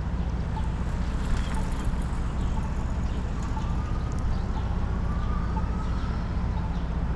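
Wind rumbling steadily on the microphone of a moving rider, with a faint regular ticking about once a second and a faint rising tone in the middle.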